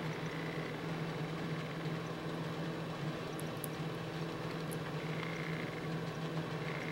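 Room tone: a steady low hum with fainter steady overtones over an even hiss, with a few faint, tiny high ticks.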